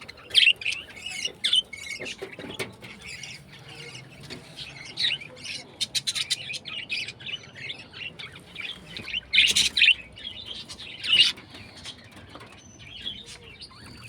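Small birds chirping and squawking over and over, with louder bursts of calls about nine and eleven seconds in, and a few sharp clicks in the middle.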